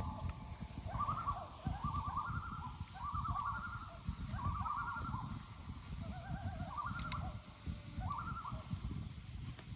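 Common loon giving its tremolo call: repeated phrases of rapid, wavering notes, about eight bursts, over a low rumble.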